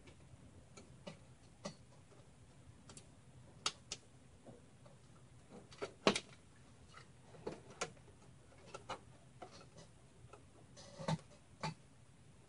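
Irregular clicks and knocks of a hard drive and its cables being fitted into a computer case, with louder clacks about six and eleven seconds in.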